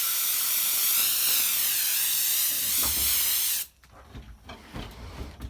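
A loud, steady hiss, like a jet of gas or air escaping, that cuts off suddenly about three and a half seconds in, followed by a few faint knocks.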